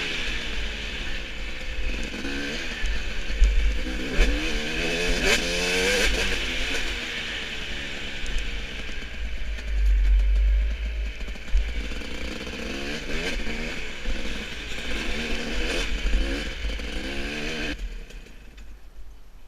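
Motorcycle engine revving up and down repeatedly over a heavy low rumble, dropping away sharply near the end.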